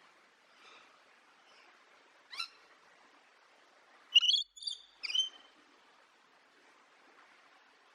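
A bird calling: a faint call, a short rising chirp, then three loud, high, short calls in quick succession, over a faint steady hiss.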